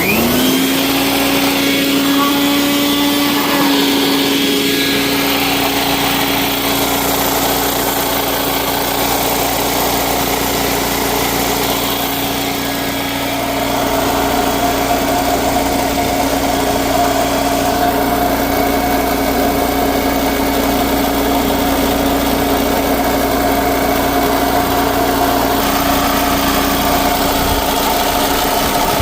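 A 3500-watt portable generator's 200cc engine running steadily. Its pitch rises right at the start, then settles and holds level at governed speed.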